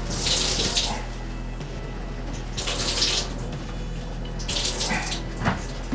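Hot water from a water heater gushing in three spurts into a container, as a pipe fitting is worked loose during draining.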